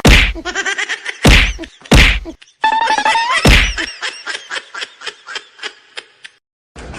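A series of sharp whacks: four loud ones in the first four seconds among many lighter, quicker knocks with short ringing tones, growing weaker and faster until they stop about six and a half seconds in.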